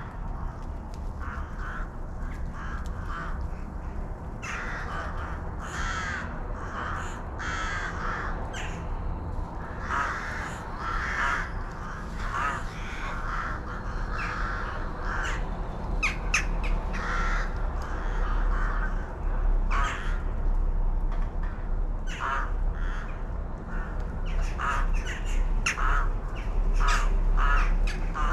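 Birds calling over and over in many short calls, with a few thin high notes in the middle. A steady low rumble runs underneath, heavier in the second half.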